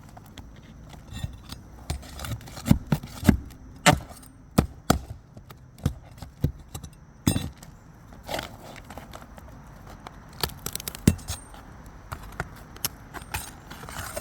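A roof shingle being pried up and its nails worked loose: irregular sharp knocks, taps and clinks of a metal tool against the roof, loudest a few seconds in and with one hard knock past the middle.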